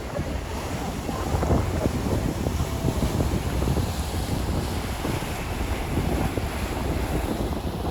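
Wind buffeting the microphone on a moving river tour boat, with the rush of water along the hull, in uneven gusts.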